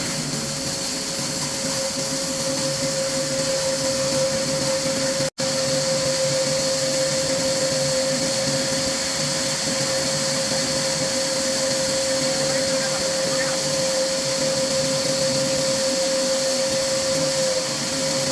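A machine running steadily with a constant whine over a hiss. The sound cuts out for an instant about five seconds in.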